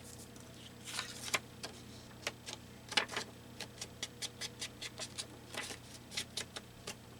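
Black ink pad dabbed against the edges of a paper tag, a quick run of light taps starting about a second in.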